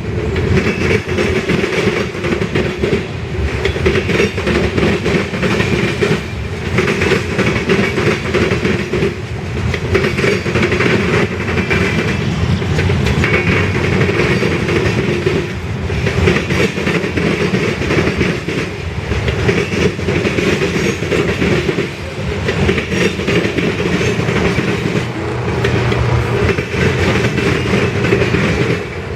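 Freight train cars rolling past steadily, wheels clattering over the rail joints, with a continuous rumble and intermittent high metallic ringing.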